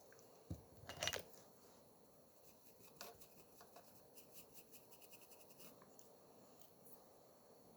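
Faint clicks and taps of small objects being handled, with a dull thump and a brief louder clatter about a second in, then a few light ticks.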